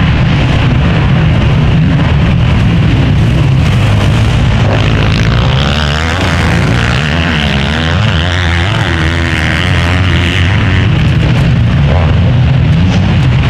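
Motocross bikes racing, their engines loud and continuous, revving up and down with shifting pitch through the middle of the stretch.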